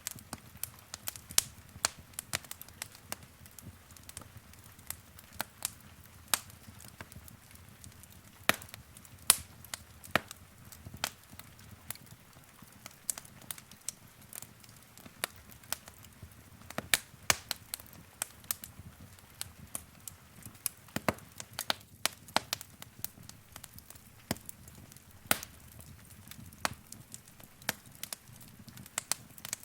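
Wood fire in a fireplace crackling, with irregular sharp pops and snaps, some loud, over a faint low rumble of the flames.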